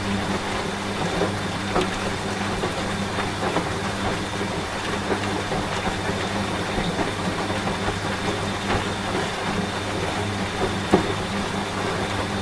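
Washing machine running with a steady low hum, mixed with falling rain and scattered drop ticks; one sharper tick stands out about eleven seconds in.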